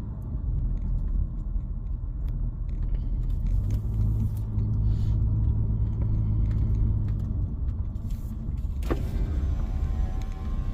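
Car driving, heard from inside the cabin: a steady low engine and road rumble that swells for a few seconds midway, with a brief click about nine seconds in.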